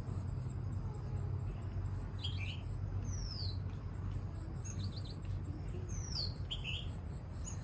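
Small songbirds calling: a few bursts of short high chirps and two high whistles that slide downward, over a steady low rumble.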